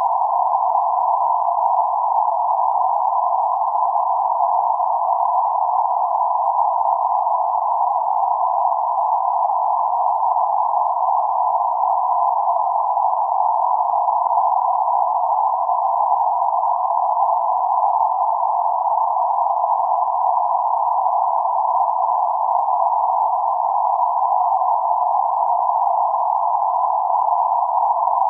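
Synthesised band-limited noise centred around 848 Hz: a steady, hissing hum confined to a narrow middle band, with no low rumble or high hiss, unchanging throughout.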